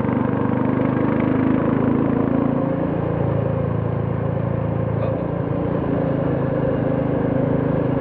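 Royal Enfield Classic 350's single-cylinder four-stroke engine and exhaust running steadily under way, with road noise. There is a brief dip in level about five seconds in.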